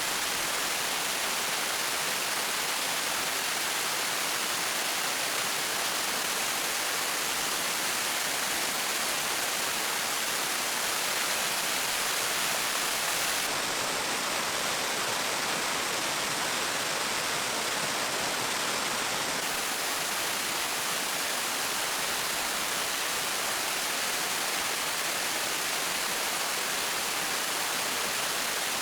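Steady rushing of water, even and unbroken, with no separate drips, splashes or knocks.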